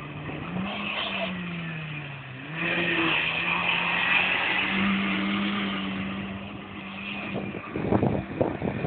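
Lada 2107's four-cylinder engine revving up and down as the car is driven hard in circles through low steppe scrub. Near the end comes a burst of rough knocking and scraping.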